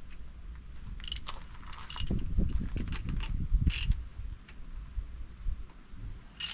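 Socket ratchet clicking in a fast run for about two seconds in the middle, as a spark plug is turned in or out of the outboard's cylinder head. There are a few sharp metallic clinks of the tool and socket.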